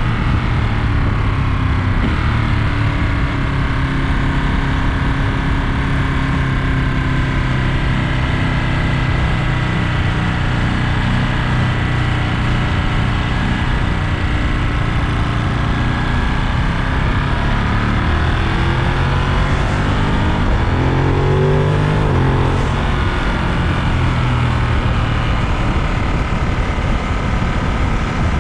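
Ducati Monster 937's L-twin engine running under way, its pitch dropping a few seconds in, holding steady for a long stretch, then rising and falling again about two-thirds of the way through.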